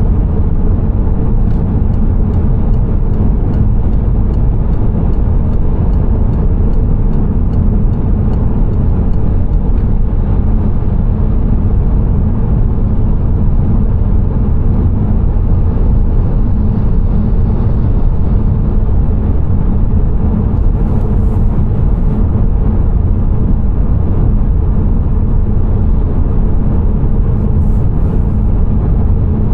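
Steady low rumble of a car driving on the road, with engine and tyre noise. A run of evenly spaced light ticks, about two a second, is heard over the first ten seconds or so.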